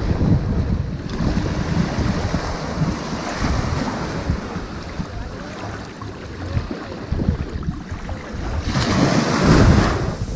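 Ocean surf washing onto a sandy beach in a steady wash, with one louder wave breaking near the end. A low, uneven rumble of wind on the microphone runs underneath.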